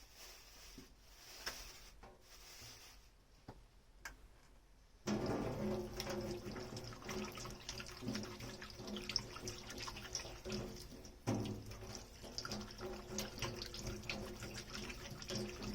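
Kitchen tap turned on about five seconds in, water running steadily into the sink, with small clicks and knocks of dishes being handled. The first few seconds before the tap opens hold only faint clicks.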